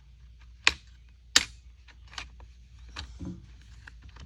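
Sharp clicks of the plastic throttle trigger and top-handle parts of an Echo CS-355T chainsaw being worked by hand during reassembly. Two loud clicks come within the first second and a half, then fainter clicks and a dull knock.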